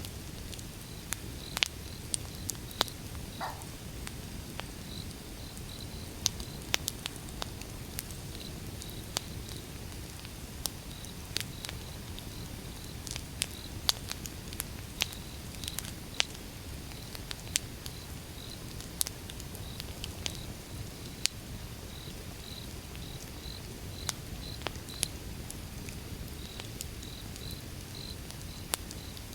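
Wood fire burning, with a steady low rumble and irregular sharp crackles and pops. A faint high chirping repeats throughout, and a short falling whistle comes about three seconds in.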